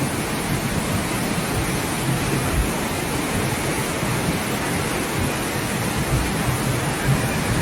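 Steady rushing noise of heavy water, even and unbroken.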